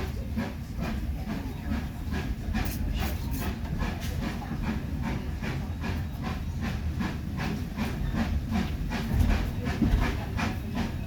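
Steam train running, heard from aboard a carriage: a steady low rumble with a regular beat about twice a second and some hiss.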